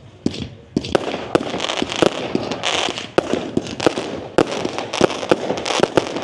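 Fireworks going off in quick succession: a string of sharp bangs and pops, some in rapid runs, over a steady crackle.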